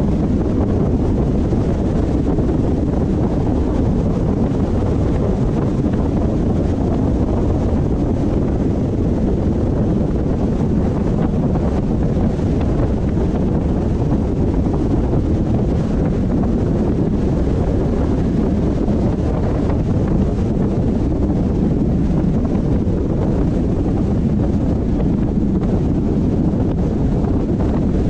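A car driving at a steady speed: a constant low rumble of road and wind noise, unchanging throughout.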